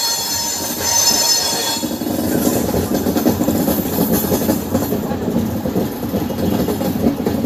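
Passenger train running, heard from beside the moving coach: a steady rumble and clatter of steel wheels on rail. A high-pitched wheel squeal rings over it for the first two seconds or so, then fades.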